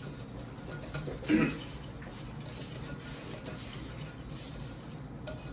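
A whisk stirring dry ingredients in a mixing bowl, faint, with one brief louder sound about a second in.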